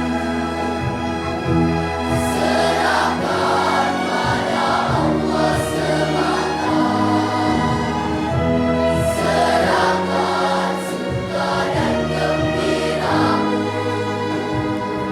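Children's choir singing with a small string orchestra, flute and piano in a live performance; sustained held notes in several parts.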